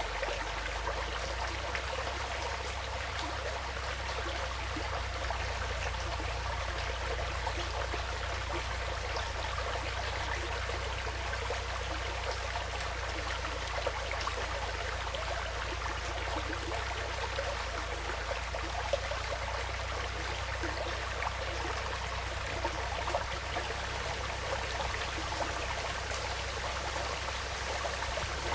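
Small woodland stream flowing steadily over stones, a continuous babbling trickle with a few faint splashes, over a steady low rumble.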